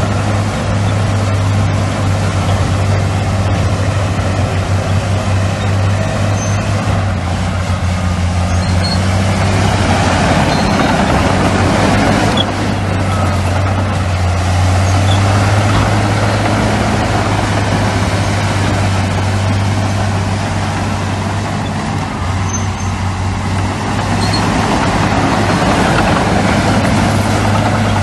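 Heavy diesel earthmoving machinery running, a steady deep engine drone under a rougher rumble that swells about ten seconds in and again about fifteen seconds in.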